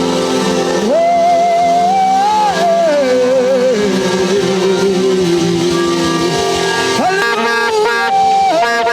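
Loud live worship music: a held, wavering lead note slides slowly down over several seconds, then quick short notes come near the end, over the noise of a shouting congregation.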